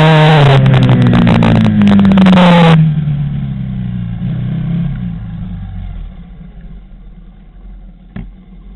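Quad bike engine running loud, its revs easing slightly, with a rough crackle over it. About three seconds in the sound drops suddenly to a quiet, low running that fades away.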